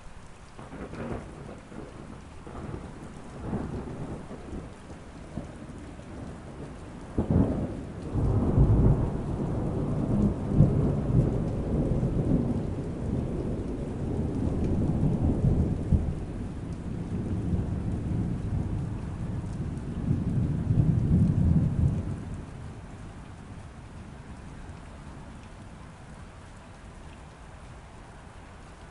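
Steady rain with a thunderstorm. Rumbles build in the first few seconds, then a sharp crack about seven seconds in opens a long, heavy rumble that rolls on until about 22 seconds and fades, leaving the rain alone.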